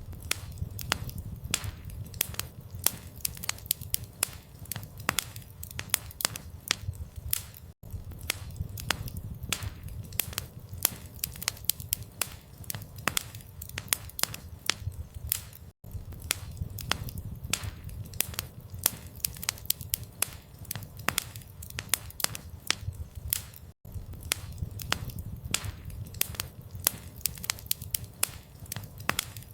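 Campfire crackling: many sharp pops and snaps over a low rumble of the flames. The sound cuts out for an instant about every eight seconds, where the recording loops.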